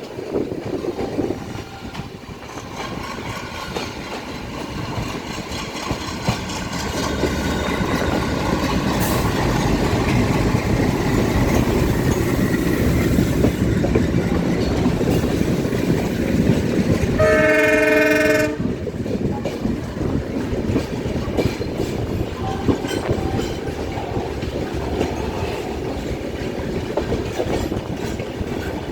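A train running on the track with a steady rumble and wheel clatter that grows louder partway through. About two-thirds of the way in, the train's horn sounds once for about a second, then the running noise settles back down.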